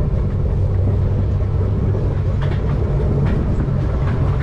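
Tugboat's engine running, a steady low drone with an even pitch.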